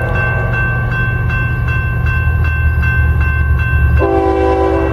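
Approaching train's diesel locomotives rumbling, under a steady ringing that pulses about two to three times a second. About four seconds in, the locomotive horn blows again, a multi-note chord.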